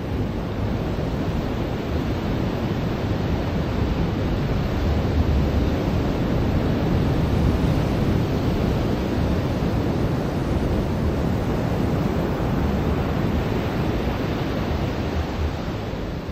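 Ocean surf washing onto a beach, a steady rush of noise that swells a little around the middle.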